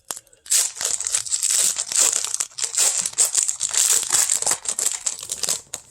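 Wrapper of a 1999-00 Topps basketball card pack crinkling as it is handled and pulled open, a dense crackle that stops just before the end.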